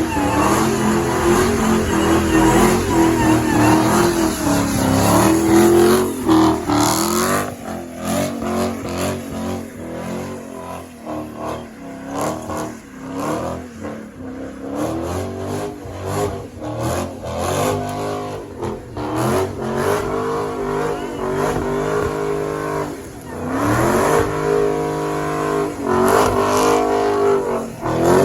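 Car engines revving, the pitch climbing and falling over and over. The revving is loudest at the start, drops to choppier, quieter blips in the middle, and climbs again in loud rising revs near the end.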